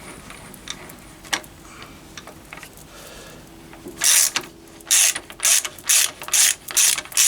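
Hand ratchet wrench clicking in quick back-and-forth strokes, about two a second, from about four seconds in. It is winding in the centre bolt of a homemade gear puller to draw a timing gear off its shaft. A few faint clicks come before the run.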